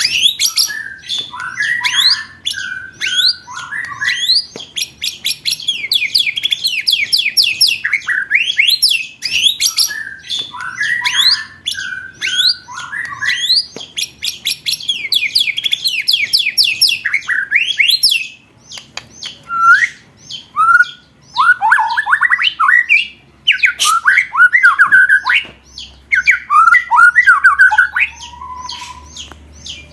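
Recorded songbird lure song: fast runs of repeated high, sharp, sweeping notes in rapid-fire rolls, broken by lower whistled phrases, with a more broken, chattering passage in the second half.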